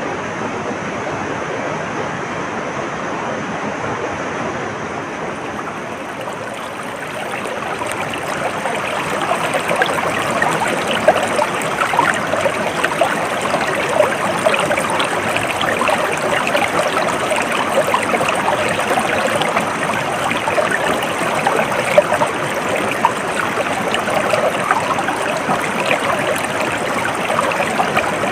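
Stream water flowing and babbling steadily, with many small splashes; it grows louder and brighter about a quarter of the way in.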